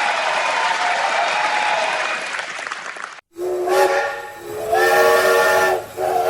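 Applause for about three seconds, cut off abruptly, then a train whistle sounding in several long blasts, its chord shifting between blasts.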